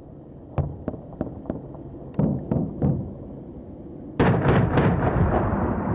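Gunfire in combat: a string of single sharp shots over the first few seconds, then a sudden loud, sustained burst of rapid fire and blast about four seconds in, its rumble fading toward the end.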